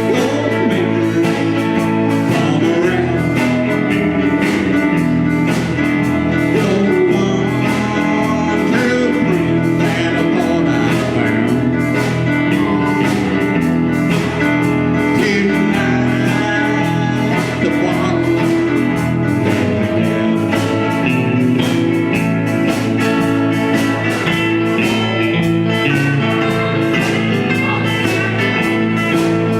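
A band playing a blues-style song with guitar over a steady beat.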